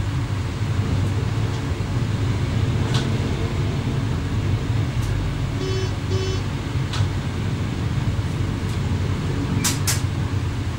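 Cab noise of a Swedish X11 electric multiple unit running along the line: a steady low drone with occasional knocks from the running gear. Two short electronic beeps come about six seconds in, and a quick pair of sharp clicks near the end.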